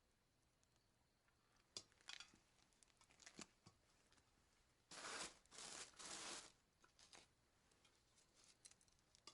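Faint handling sounds: a few light clicks, then three short bursts of noise close together about five seconds in.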